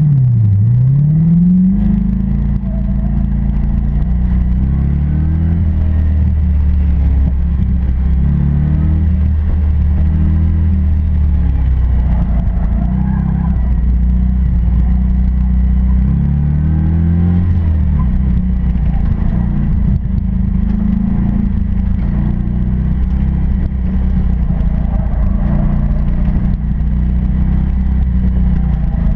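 1992 Chevrolet Corvette's V8 engine heard from inside the open-roof cabin on an autocross run. It revs up sharply off the start line, then its pitch rises and falls again and again as the car accelerates and slows through the course.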